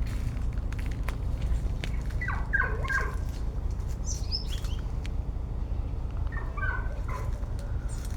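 Short animal calls in two clusters, about two seconds in and again near the end, with a higher chirp in between, over a steady low rumble.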